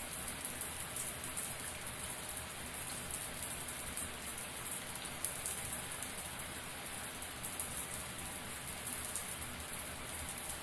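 Running shower: water spraying down as a steady hiss with a dense patter of droplets.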